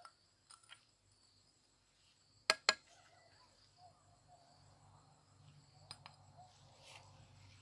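A steady, faint insect chirring, high-pitched, from crickets or similar insects. Two sharp clicks come close together about two and a half seconds in, louder than the chirring, with a few fainter clicks later on.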